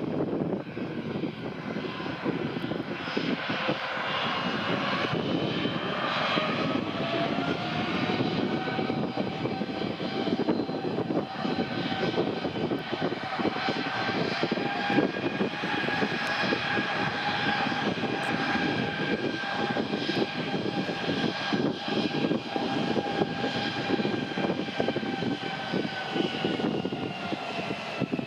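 Airbus A320's twin jet engines running: a steady whine of several held tones over a rumble. The whine rises slightly in pitch in the first few seconds and drops in pitch near the end.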